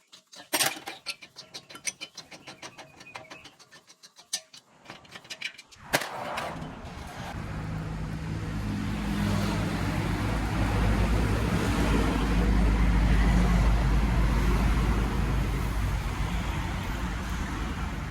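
Rapid, regular clicking for about six seconds, then a car engine starts suddenly and runs steadily, growing louder over the next several seconds.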